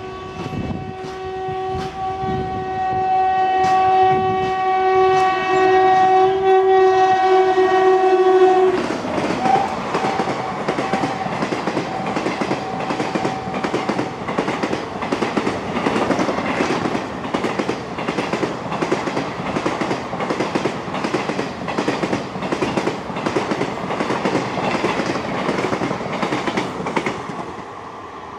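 Indian Railways electric locomotive sounding one long two-tone horn as it approaches and passes at speed; the horn grows louder, dips slightly in pitch and cuts off about nine seconds in. The express's coaches then rush past with a rapid, rhythmic clickety-clack of wheels over the rail joints.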